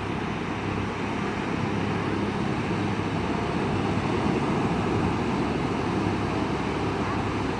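Steady wash of ocean surf and wind, with a low steady hum underneath, swelling slightly in level around the middle.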